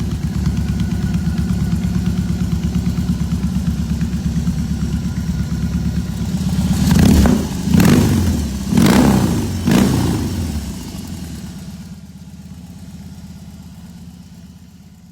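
BMW R18 motorcycle's boxer twin engine idling with a steady pulsing beat, then revved three times in quick succession, after which it settles back and fades out.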